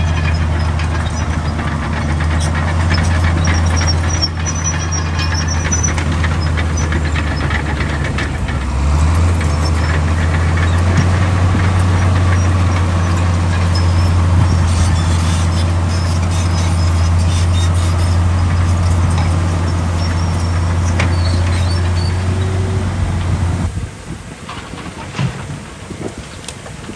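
Heavy diesel engine of earthmoving equipment running steadily under load, with intermittent metallic squeaks and clanks. The engine note shifts slightly about nine seconds in and cuts off suddenly near the end, leaving a much quieter background.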